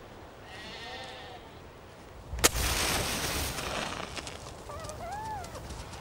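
Sheep bleating twice, with a short arching call each time. Between the two calls comes one sharp crack, followed by about a second of loud rustling noise.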